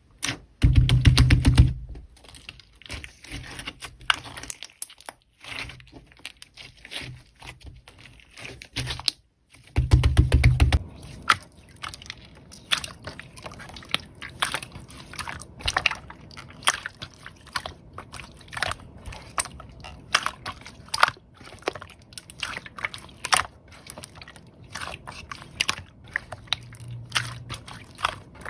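Slime being squeezed, stretched and poked by hand: a dense, irregular run of sticky clicks and crackles. Two louder, deeper squelches come about a second in and about ten seconds in.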